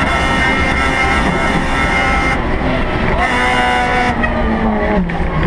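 Rally car engine at high revs, heard from inside the stripped, roll-caged cabin. The upper hiss drops away briefly about two and a half seconds in and again around four seconds, and the engine note then settles lower and wavers in pitch toward the end.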